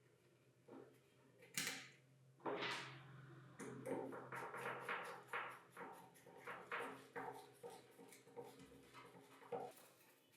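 Small parts being handled and fitted during reassembly of a concrete vibrator: irregular light clicks, taps and knocks, with a couple of short scraping swishes in the first few seconds.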